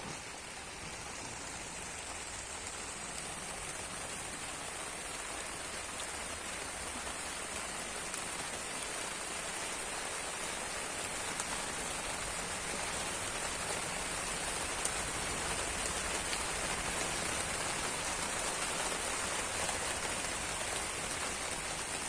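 Steady rain falling, growing gradually heavier.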